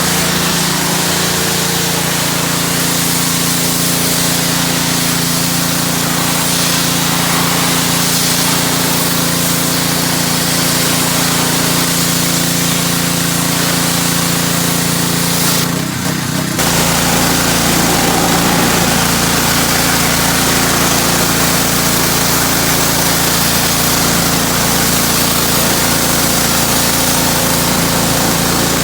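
Pressure washer running steadily, its motor tone under the hiss of the water spray, with a brief break about sixteen seconds in before it carries on.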